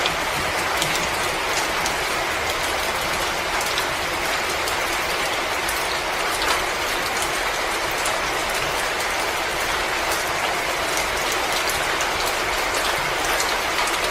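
Wood fire crackling in a fireplace: a steady hiss with frequent small, sharp pops and snaps scattered irregularly throughout.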